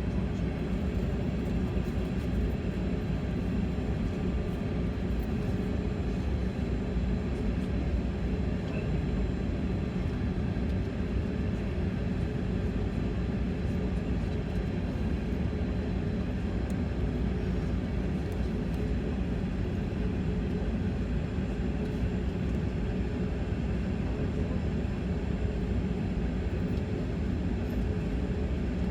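Steady low rumble of a jet airliner heard from inside the cabin as it taxis with its engines at idle, with a few faint steady whines above it.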